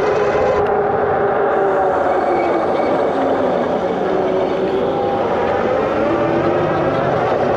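A car driving, heard from inside the cabin: a steady drone of engine and road noise, with tones that drift slowly up and down in pitch.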